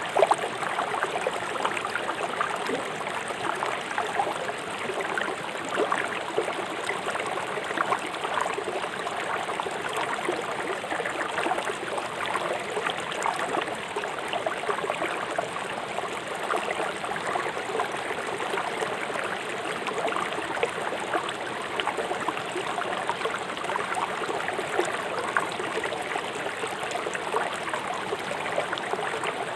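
River water rushing swiftly over rocks in the streambed: a steady rush full of small, quick splashes.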